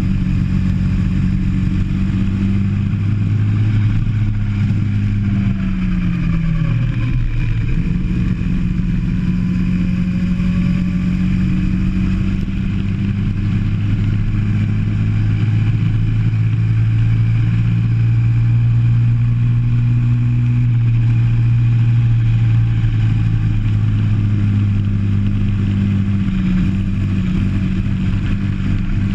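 Go-kart engine heard from on board, its pitch falling and rising as the kart slows for corners and accelerates out of them. There is a long full-throttle stretch in the middle.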